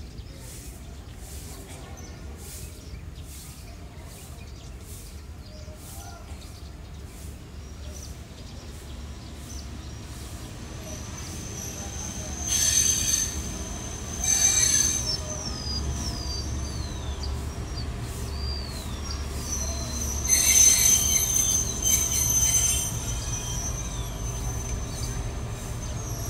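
Passenger train pulling into a station. A low rumble builds from about ten seconds in, and high metal-on-metal squeals come in two loud bouts as the coaches roll alongside the platform.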